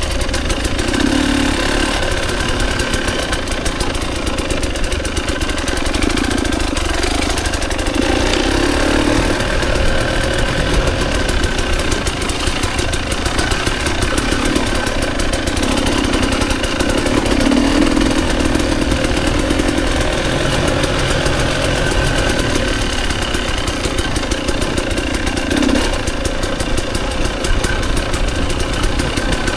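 Dirt bike engine running at low, fairly steady revs.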